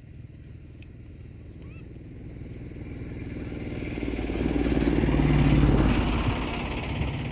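A motor vehicle passing by, its engine growing steadily louder, loudest about two thirds of the way through, then easing off.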